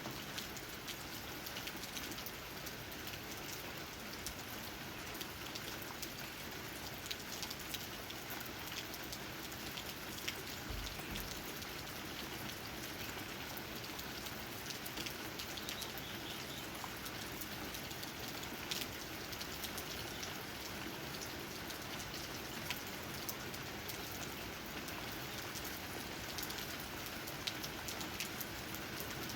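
Steady rain, with many individual raindrops tapping on leaves as a continuous dense ticking over an even hiss.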